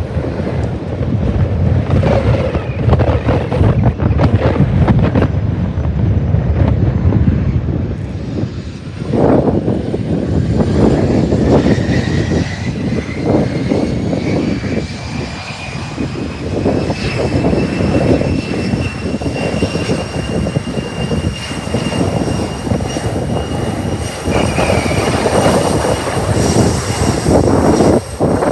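Jet airliner engines, a deep rumble with a high whine that starts about nine seconds in and climbs slowly in pitch before levelling off, mixed with wind buffeting on the microphone.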